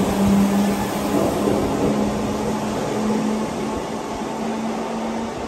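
Merseyrail electric multiple unit pulling out of an underground platform: a steady electric hum that steps slightly higher in pitch and fades as the train runs off into the tunnel.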